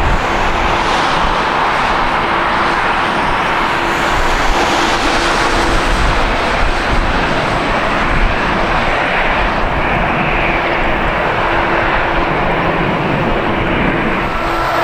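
Jet airliner's engines: a loud, steady rush of noise with a faint steady hum underneath.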